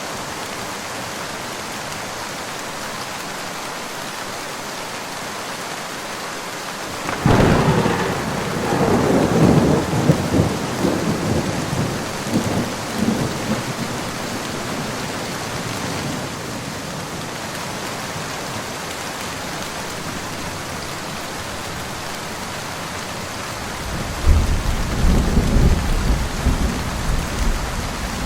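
Steady rain falling, with two rolls of thunder: a sudden crack about a quarter of the way in that rumbles on for several seconds, and a second, deeper rumble near the end.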